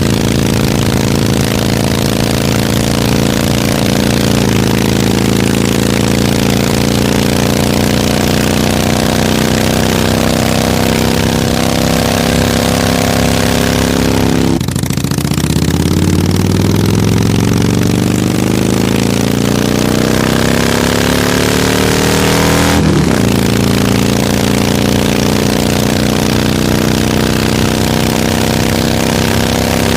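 Harley-Davidson V-twin motorcycle engine running under way. The pitch steps about four seconds in. Near halfway it drops and then climbs steadily for about eight seconds as the bike accelerates, before falling abruptly at a gear change and settling into steady running.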